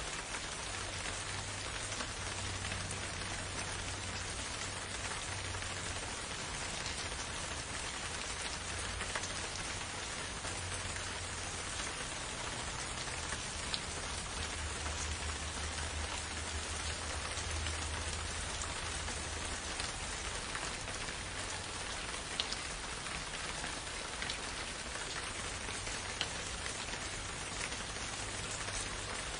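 Steady rain falling in a forest, an even hiss with a few louder single drops ticking close by. A low rumble comes and goes underneath.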